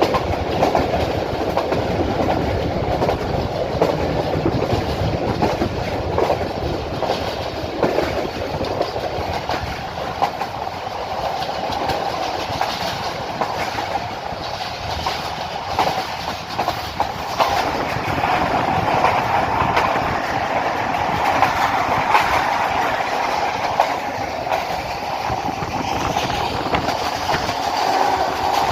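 Passenger train running along the track: a steady rumble with the clickety-clack of wheels over rail joints, growing somewhat louder in the second half.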